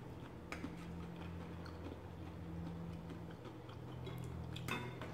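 Soft chewing of a mouthful of food, with a metal fork clicking lightly on the plate a couple of times, about half a second in and near the end, over a faint steady low hum.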